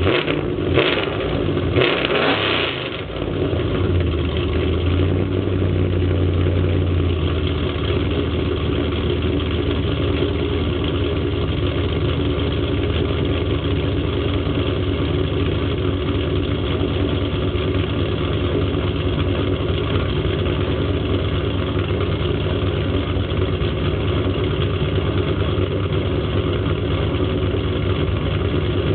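2000 Camaro SS's LS1 V8, with a Torquer 2 cam, long-tube headers and an SLP Loudmouth cat-back exhaust, blipped twice in the first three seconds, then settling into a steady idle.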